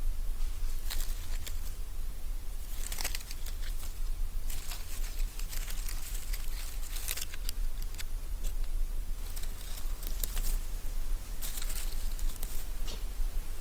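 Irregular rustling and crunching in dry forest leaf litter, in scattered bursts, over a steady low rumble.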